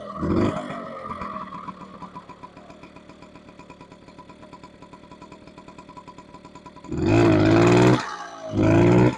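Honda Express NC50's 49cc two-stroke single-cylinder moped engine idling with a steady pulse. There is a short throttle blip at the start and two longer revs near the end.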